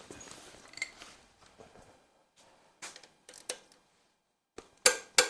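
Metal hand tools and engine parts clinking lightly, then near the end a run of sharp metallic taps, about three a second, as parts are worked off a Ford 351 Windsor engine.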